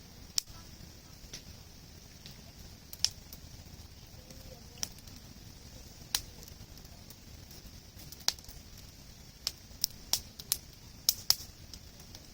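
Large open wood fire crackling, with irregular sharp pops and snaps from burning logs. The pops come sparsely at first, then in a quick cluster near the end.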